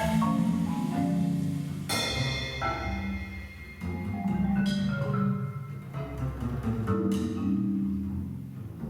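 Marimba played with mallets in a free improvisation, its struck notes ringing and decaying over low sustained tones. Sharp bright strikes come in about two, four and a half, and seven seconds in.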